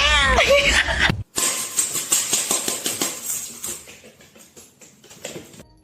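A cat yowling in drawn-out, wavering meows that stop abruptly about a second in. Then comes a quick run of clicks and rustling that slowly fades away.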